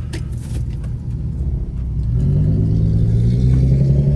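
Infiniti G37's 3.7-litre VQ37 V6 through a loud full-bolt-on exhaust, rumbling at low revs, then pulling away from about two seconds in with the pitch climbing steadily under acceleration.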